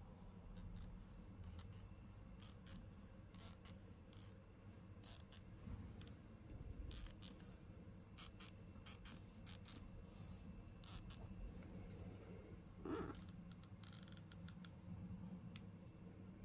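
HP Victus 16 laptop's lid hinge creaking and clicking as the lid is moved: a run of faint, irregular sharp ticks and creaks, with one louder creak about 13 seconds in. The noise from the hinge is a fault.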